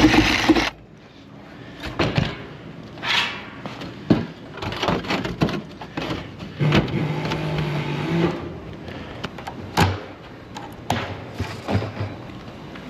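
Irregular knocks and clatter, with a short low hum lasting under two seconds midway.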